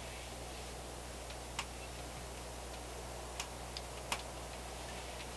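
A burning wood stove ticking and crackling: about five faint, sharp, irregular ticks over a low steady hum.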